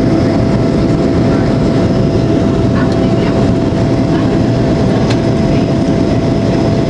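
Steady cabin noise inside a Boeing 737-800 in flight: engine and airflow rumble, with a steady hum running through it.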